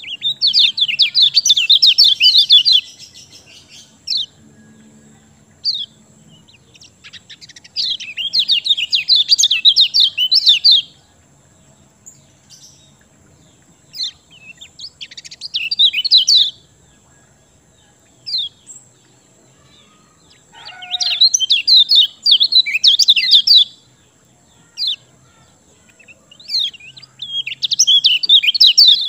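Kecial kuning songbird singing in full, energetic song: five phrases of rapid, high trilled chirps, each two to three seconds long, with short single call notes in the pauses between.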